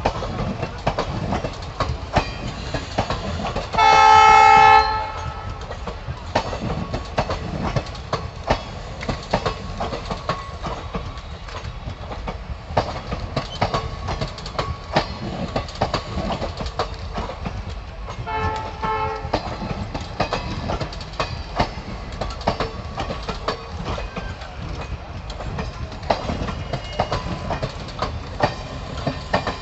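Indian Railways train running on the track, with steady rumble and the clatter of wheels over rail joints. The locomotive horn sounds loudly for about a second, about four seconds in, and again more faintly, briefly, around eighteen seconds in.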